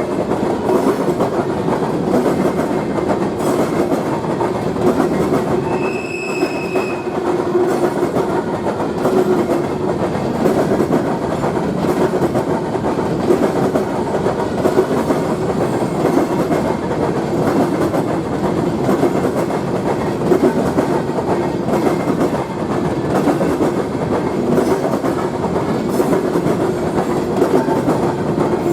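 Train rolling past on the track, with steady, loud wheel-on-rail noise throughout. A brief high tone sounds about six seconds in.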